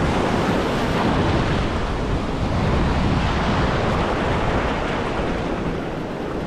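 Ocean surf breaking and washing ashore steadily, with wind on the microphone.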